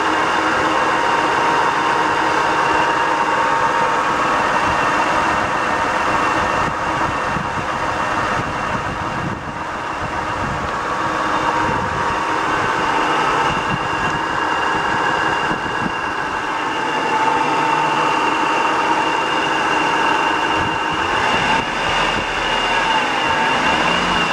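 Acura Legend's 3.2-litre V6 running with a knock, which the owner suspects is rod knock developed after the engine overheated.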